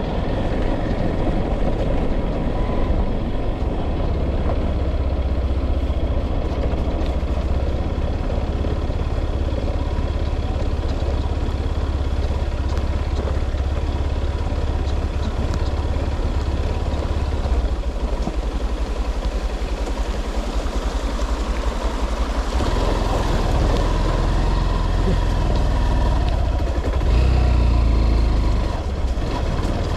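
A motor vehicle running with a steady low rumble that shifts character about 18 seconds in and again about 23 seconds in, and grows louder briefly near the end.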